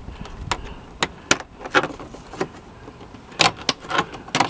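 Irregular clicks and knocks of hands and tools prying the plastic inside door-handle bezel and its wiring connector loose on a van door, with the sharpest knocks about three and a half seconds in and near the end.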